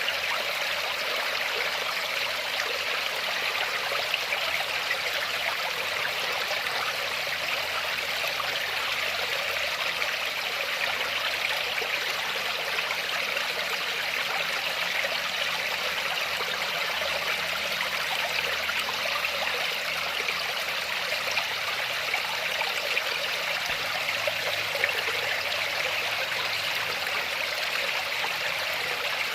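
Waterfall: water falling and splashing in a steady, unbroken, hissy rush.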